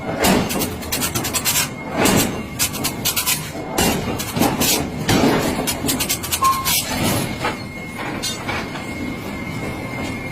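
Irregular knocks and clatter, one to three strikes a second, over a steady background noise, with a faint steady high tone in the second half.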